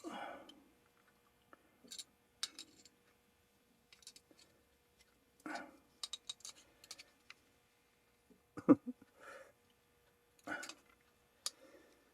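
Channel-lock pliers clicking and scraping on steel wire as wire toes are gripped and bent apart: irregular small clicks and short rustles, the loudest a sharp knock a little under nine seconds in.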